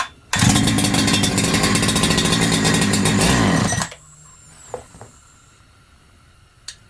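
Holzfforma G372XP two-stroke chainsaw, a Husqvarna 372XP clone, firing on choke with a little fuel primed in. It runs for about three and a half seconds, then the revs drop and it stalls, a sign of the fuel-starvation problem the saw has.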